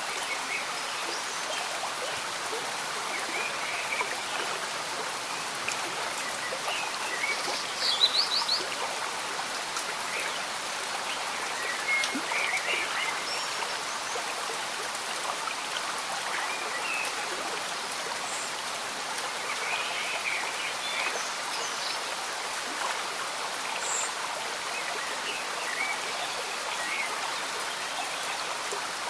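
Steady gentle rain and a bubbling stream, with scattered short chirping calls of small jungle animals over the water noise. A quick run of chirps about eight seconds in is the loudest moment.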